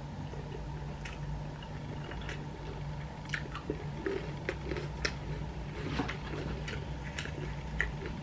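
A person chewing a mouthful of food, with small crisp clicks coming irregularly about twice a second, over a steady low hum.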